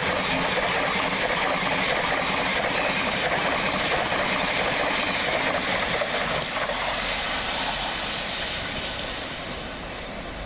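Thameslink Class 700 electric multiple unit running through the station, a steady noise of wheels and traction that fades away over the last few seconds as the train moves off.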